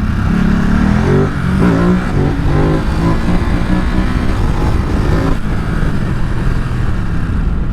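Ducati Supersport 950 S's 937 cc L-twin engine accelerating hard. Its note climbs in pitch several times in quick succession between about one and three seconds in, then holds a steadier high-speed run.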